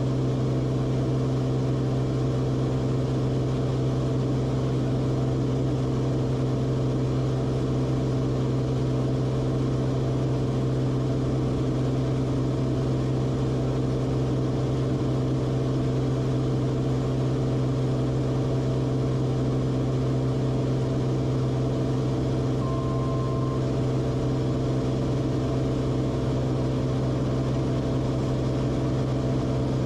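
Cessna Corvalis TTX's turbocharged six-cylinder piston engine and propeller droning steadily in cruise, heard from the cockpit. A short, steady beep of about a second sounds once, about three-quarters of the way through.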